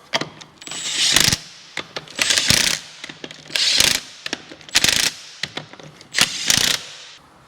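Small impact wrench run in about five short bursts, snugging the wheel nuts of a car wheel on a light setting before they are torqued by hand.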